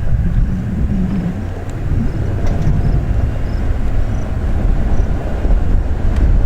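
Dodge pickup truck driving on a dirt track: a steady, low rumble of engine and tyres.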